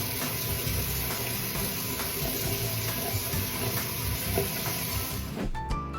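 Kitchen tap running into a sink while dishes are washed: a steady hiss of water that cuts off about five seconds in. Light background music comes in after it.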